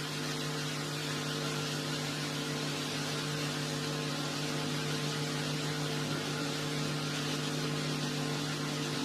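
A steady low hum with even hiss, holding unchanged throughout.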